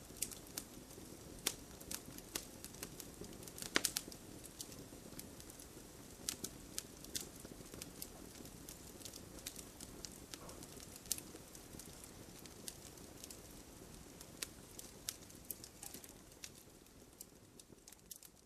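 Campfire crackling: irregular sharp pops over a steady low rush of the flames, with the loudest pop about four seconds in. The crackling thins out and grows quieter near the end.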